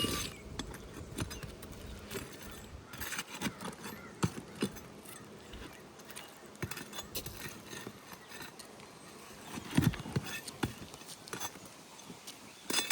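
Scattered light clicks and knocks of a steel flat bar working under asphalt roof shingles to pull the nails, about ten irregular strikes with one heavier knock near the end.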